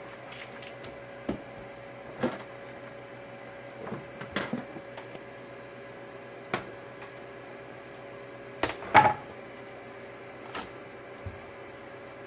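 Kitchen handling sounds: scattered knocks and clicks of items being picked up and set down on a counter, the loudest a quick double knock about nine seconds in, over a steady appliance hum.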